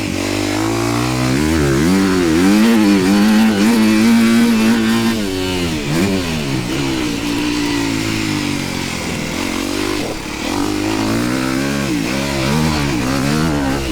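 Dirt bike engine revving up and down while riding a motocross track, its pitch rising and falling again and again, held high for a couple of seconds early on, with a steady rush of wind noise.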